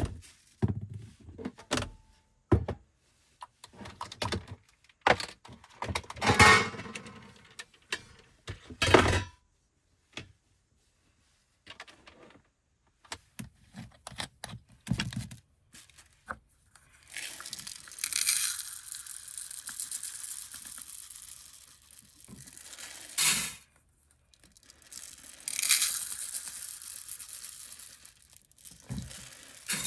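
Small handling noises, a run of clicks, knocks and crinkling, then two spells of steady hiss, broken by a sharp knock between them.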